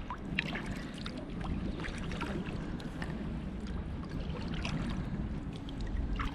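Kayak paddling on open water: small splashes and drips from the paddle and water against the hull, over a steady low rumble of wind on the microphone.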